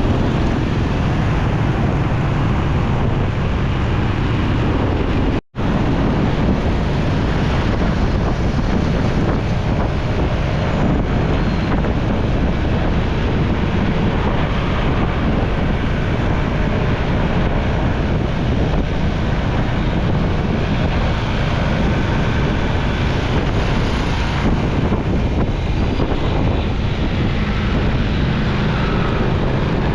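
Steady wind rush on the microphone and road noise from a moving motorcycle in traffic. The sound cuts out completely for a split second about five seconds in.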